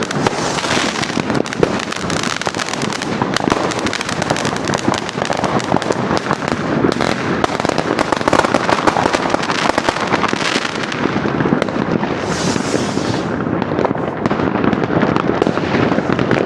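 Dense, unbroken crackle and banging of many fireworks and firecrackers going off at once. A short hiss, like a rocket whooshing up, comes about twelve seconds in.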